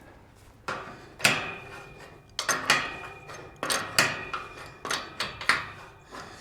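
Metal clanking: about nine sharp, irregular knocks spread over several seconds, a couple of them ringing briefly, from metal tools and gate fittings being handled and struck.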